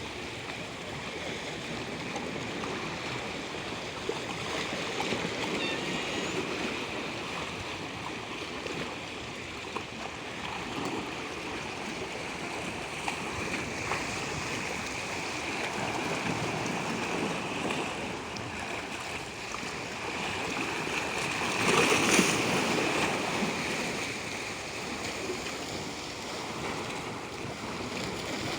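Natural water rushing and splashing continuously, swelling and easing, with a louder surge about 22 seconds in.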